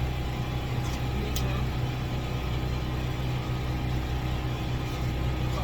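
Steady low engine hum, like a motor idling without change, with a faint click about a second and a half in.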